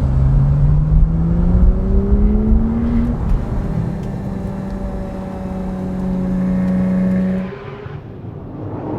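Porsche 911 R's naturally aspirated 4.0-litre flat-six pulling hard, its pitch rising through a gear, with a brief break for an upshift about three seconds in. It then holds steady revs and eases off near the end, the sound dropping in level.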